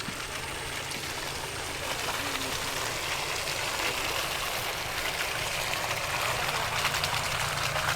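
Steady hiss of rain over a low rumble, growing a little louder about two seconds in.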